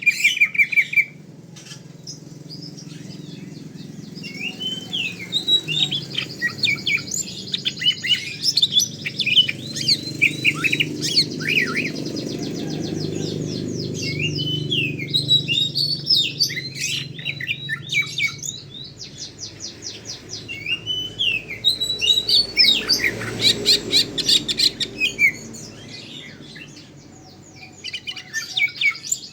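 Cucak ijo (green leafbird) singing a busy, varied song of chirps, gliding whistles and fast clicking trills, with short lulls near the start and near the end.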